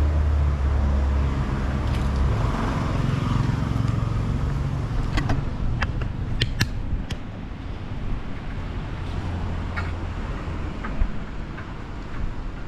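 Road traffic: a car engine running close by for the first couple of seconds, then the hum of passing vehicles, with a few sharp clicks about halfway through.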